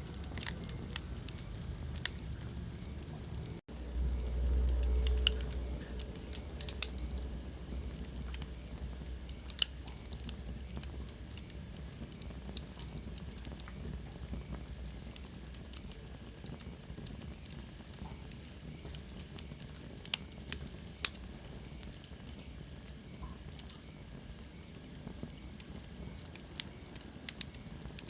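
Wood fire crackling, with a steady soft hiss and scattered sharp pops. A brief dropout comes about three and a half seconds in, followed by a low rumble for a couple of seconds, and a faint high whistle slides down in pitch about twenty seconds in.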